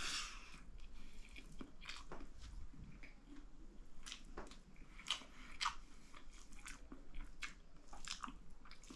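A person chewing a mouthful of dal bhat close to the microphone: irregular wet mouth clicks, a few each second.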